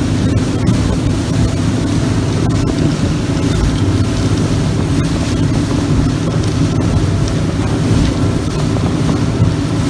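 Speedboat engine running steadily under way, with wind buffeting the microphone and water rushing past the hull.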